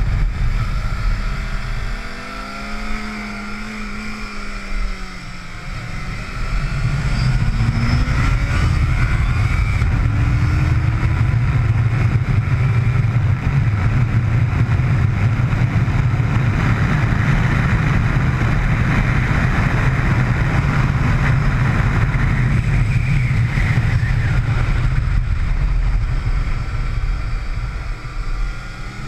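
Motorcycle engine heard from on board on a race track. The revs fall and it goes quieter about two seconds in, then it climbs again in rising pitch sweeps, runs loud and steady at high revs for most of the stretch, and eases briefly near the end.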